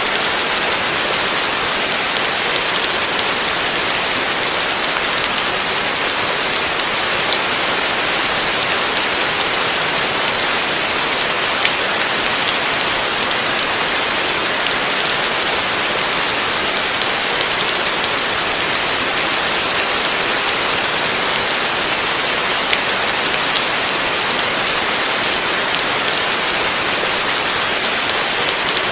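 Heavy rain falling steadily on a roof: a dense, even patter of drops with no thunder.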